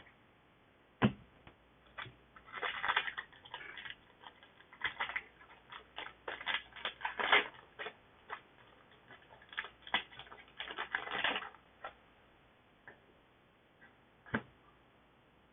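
Foil booster-pack wrapper crinkling and trading cards rustling as they are handled, in irregular crackly bursts with sharp clicks. It thins out to a few light ticks near the end.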